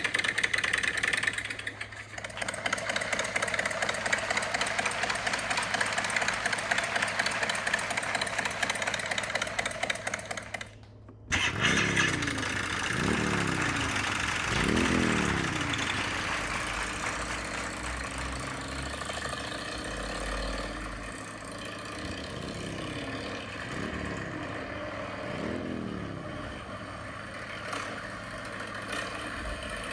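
Motorcycle engine running, then, after a brief cut about eleven seconds in, revved in quick throttle blips: three sharp rises and falls in pitch, a stretch at idle, then three more blips.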